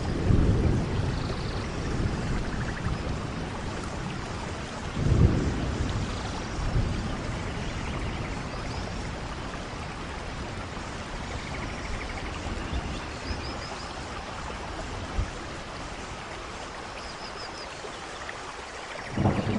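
Steady hiss of rain, with low rumbling buffets of wind on the microphone; the strongest is about five seconds in.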